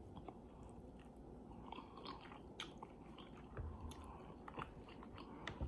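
A person chewing food, with faint wet mouth sounds and scattered small crunches and clicks, a little louder a bit past halfway.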